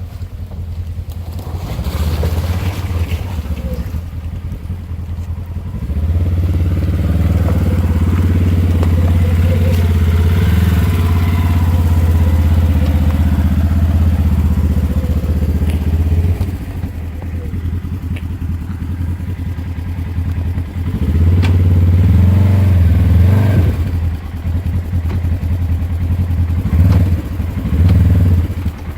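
Polaris RZR side-by-side engine working hard as the machine climbs a steep dirt bank. It is louder in long surges from about six seconds in, again past twenty seconds and briefly near the end.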